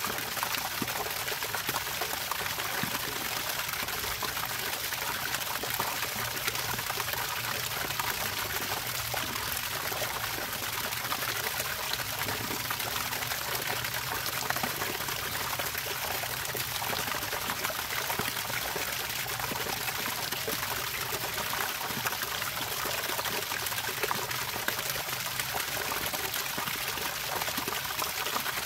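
Running water trickling and splashing steadily, with no pauses.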